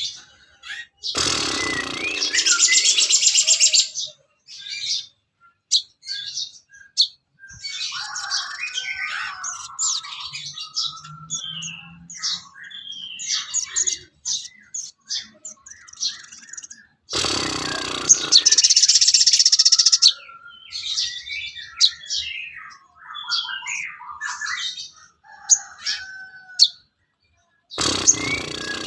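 Songbirds chirping and calling in a varied string of short whistles and chirps, from a bird-tutoring recording. Two loud, fast trills stand out, one about a second in and one about seventeen seconds in, with another starting near the end.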